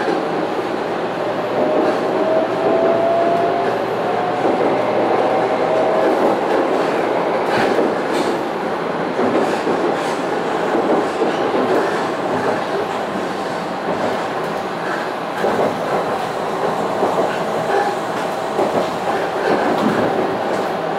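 Shinkansen train heard from inside the cabin as it pulls away: an electric motor whine rises in pitch over the first few seconds, then steady rolling noise with the wheels clicking over the track.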